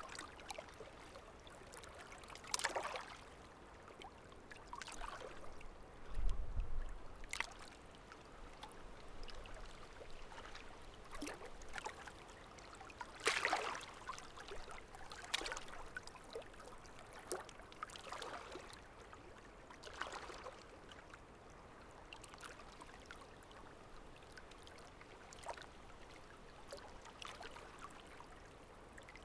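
Running water: a small stream trickling and splashing irregularly, with a brief low rumble about six seconds in.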